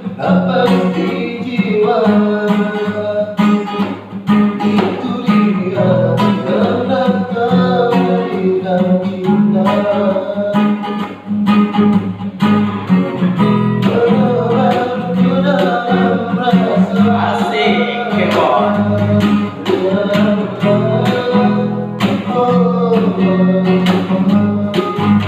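A voice singing a song to a strummed acoustic guitar.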